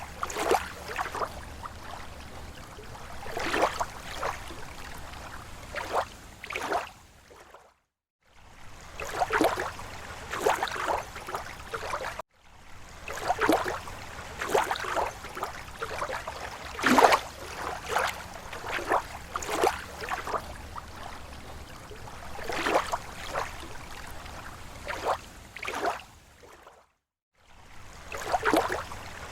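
Small, slow waves lapping against a lake shore in irregular splashes and gurgles, each slap short and splashy. The sound drops out to silence for a moment three times.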